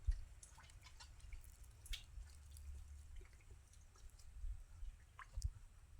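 Faint scattered drips and small splashes of shallow muddy water being worked by hand while searching for fish, over a low rumble.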